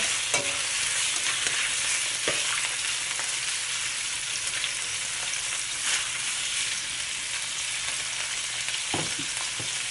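Shrimp and minced garlic sizzling steadily in hot oil in a wok, cooking until the shrimp change colour, with a spatula stirring and scraping them now and then.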